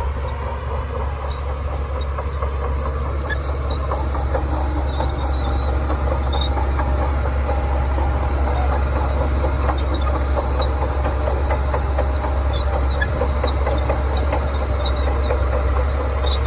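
Shantui crawler bulldozer's diesel engine running with a steady low drone, over a constant fine clatter of its steel tracks as it pushes sand. It grows a little louder over the first few seconds.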